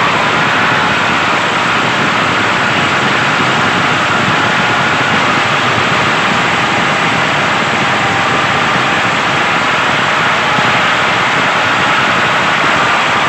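Small electric motor of a homemade toy tractor running steadily, a loud even whir with a faint high whine.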